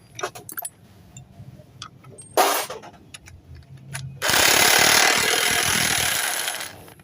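Workshop clicks and knocks, then a short loud burst of rushing noise about two and a half seconds in, and from about four seconds in a louder, steady rush of noise lasting some two and a half seconds before fading near the end.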